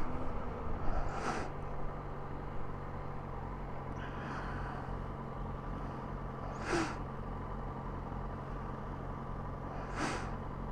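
Yamaha XJ6N's 600 cc inline-four engine idling steadily, with three short hissy whooshes about a second, seven seconds and ten seconds in.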